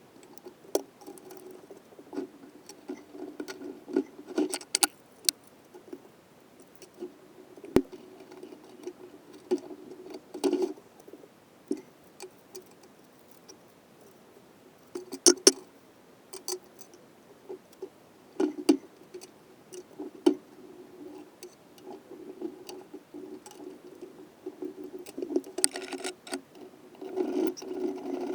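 Scattered clicks and light metallic taps from hand tools and small engine parts being handled while a small engine's cylinder and head are assembled, with a few louder knocks and a busier run of clinks near the end, over a faint steady hum.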